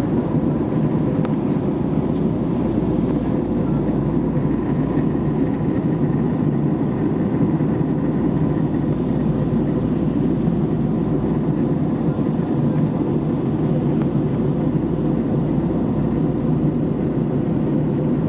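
Steady cabin drone of an Airbus A320neo in flight: engine and airflow noise heard from inside the cabin, a low even rumble with faint steady tones over it.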